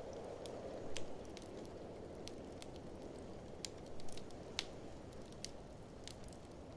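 Wood fire crackling in an open fireplace: irregular sharp pops and snaps over a steady low rushing noise.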